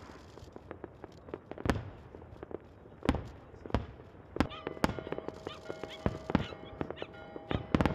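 Fireworks bursting overhead: a rapid, irregular series of sharp bangs and cracks. About halfway through, steady held tones of music start and run under the bangs.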